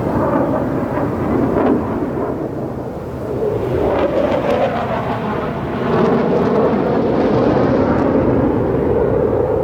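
Jet aircraft passing overhead: a loud, continuous rumble of jet engine noise that eases around three seconds in and swells again after that.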